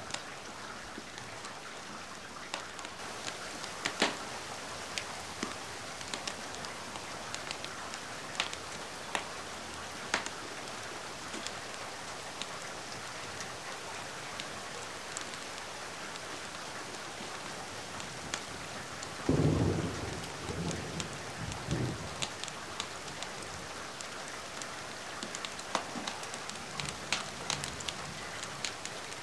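Steady rain, with scattered sharp crackles from a fireplace and a roll of thunder lasting a few seconds about two-thirds of the way through.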